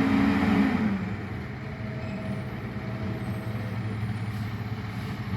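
Garbage truck engine running. It is loudest at first, falls in pitch and level about a second in, then goes on as a steady lower hum.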